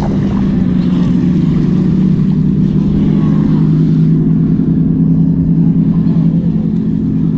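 A steady, loud low drone of several unchanging pitches, like an engine or machinery running nearby, with faint wavering higher tones over it.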